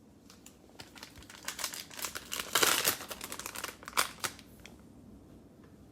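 Plastic cello-pack wrapper crinkling and crackling as it is handled. The crackles are loudest about two and a half seconds in, with a sharp snap near four seconds.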